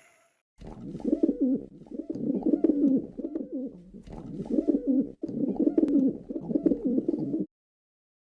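Pigeon cooing: a run of low, rolling coos repeated back to back, which stops abruptly near the end.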